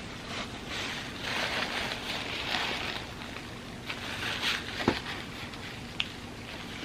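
Close-miked eating sounds: soft, moist chewing of creamy crepe cake, with two sharp clicks of a utensil about five and six seconds in.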